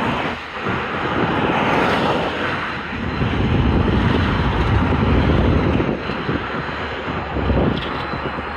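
Wind buffeting the microphone in uneven gusts over a steady, noisy rumble.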